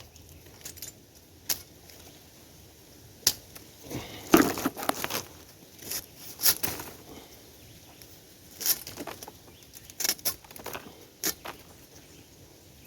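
Knife cutting and shaving the spiky rind off a pineapple: irregular short slicing strokes and scrapes with pauses between them.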